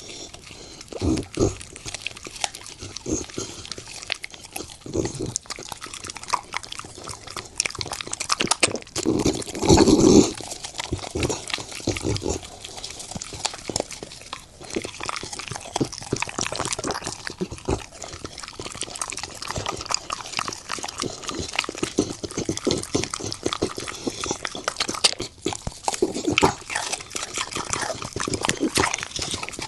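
A bully dog chewing and crunching a crocodile leg, with wet mouth sounds between irregular crunches and a louder burst about ten seconds in.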